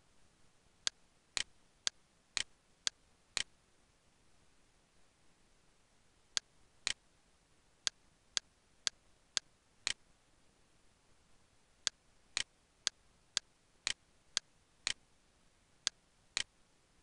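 Computer mouse clicks in three quick runs, about two a second, with short pauses between the runs.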